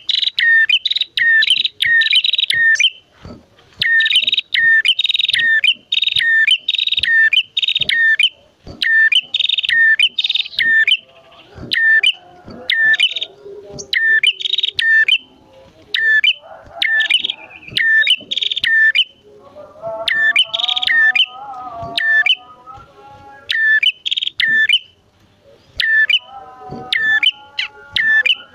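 Prenjak songbirds, a male and a female, calling loudly in long runs of rapid, sharp, repeated chirps. A lower, softer warbling joins in now and then.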